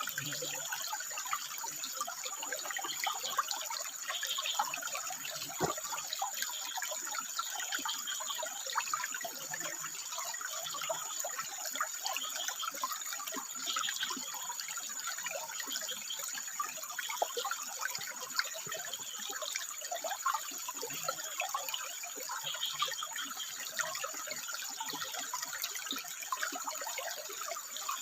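Water trickling and splashing over rocks in a steady, continuous stream, with a thin steady high tone running underneath.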